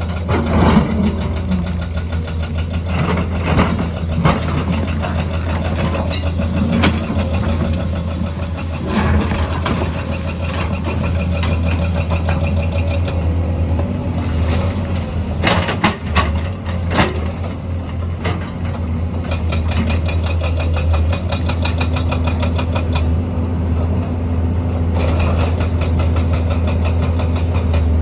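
Excavator's diesel engine running steadily under a constant low drone, with scattered knocks and clanks of the bucket working earth and rock, most of them in the first half and a cluster about 15 to 17 seconds in.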